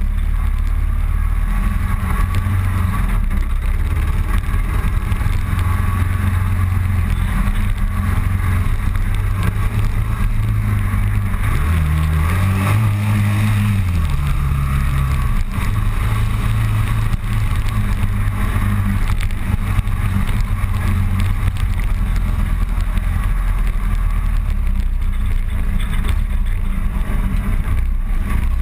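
Motorcycle engine running steadily under way, with wind and road noise. The revs climb about twelve seconds in and settle back a few seconds later.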